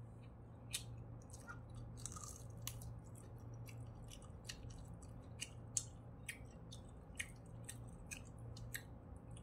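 A person chewing fried wagyu beef: faint wet mouth clicks and smacks at an irregular pace, over a low steady hum.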